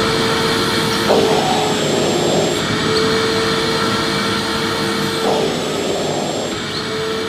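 Vacuum cleaner running steadily with a rushing whoosh of air. A humming tone in it drops out about a second in, returns a second or so later, and drops out again near the end, as the airflow shifts.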